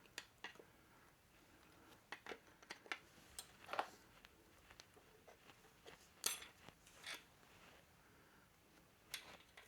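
Scattered light metallic clicks and clinks of small tools and engine parts being handled, the sharpest, with a brief ring, a little past the middle.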